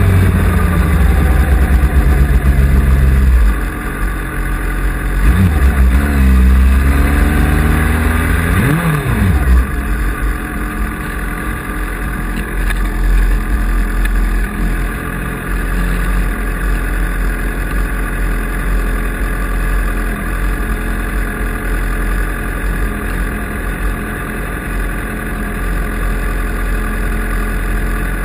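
Road-racing motorcycle engine under way, heavy and low for the first few seconds, then revving with the pitch rising and falling several times before settling into steady high-speed running.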